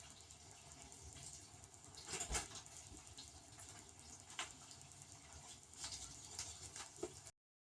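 Faint water pattering inside a running benchtop dishwasher, with a few sharp clicks, the strongest about two seconds in; the sound cuts off suddenly near the end.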